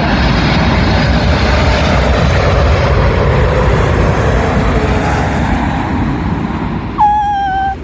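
Large jet airliner flying low overhead, its engines loud and dense with a whine that slowly falls in pitch as it passes. Near the end, a short steady high tone cuts in.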